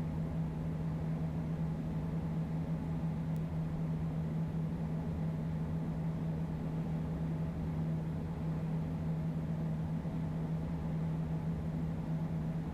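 Steady cabin noise of a Beechcraft Premier I twin-turbofan business jet in the climb: a constant rush of airflow and engine noise with a steady low hum.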